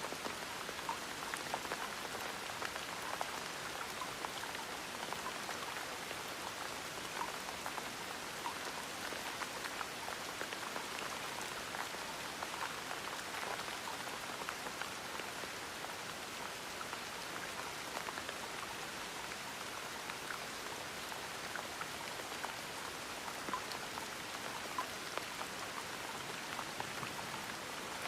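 Steady gentle rain: an even hiss with many small drop ticks scattered through it.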